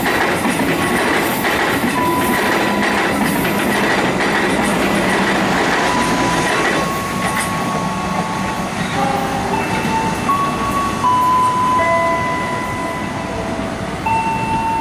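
A passenger train running past on the rails, its wheels and carriages making loud, even rolling noise that eases about halfway through. Through the second half, a series of steady high tones steps from pitch to pitch.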